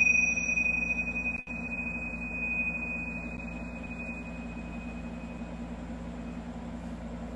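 A high-pitched metal meditation chime, struck once, rings on as one clear steady tone with fainter higher overtones and fades away over about six seconds.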